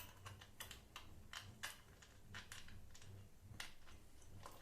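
Faint, scattered clicks and taps of small metal hardware, washers and nuts being handled and fitted onto bolts.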